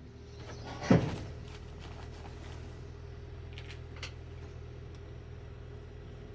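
One loud dull thump about a second in, followed by a few faint light clicks, over a steady low hum.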